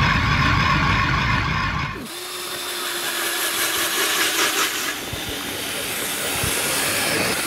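Background music for about two seconds, then an abrupt cut to a motorized ice auger boring through thick lake ice, a steady mechanical whirring with hiss.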